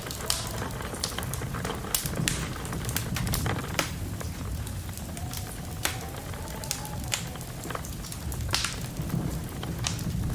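Wood fire in a fireplace crackling, with irregular sharp snaps and pops over a steady low rumble. A faint wind whistle rises and falls about halfway through.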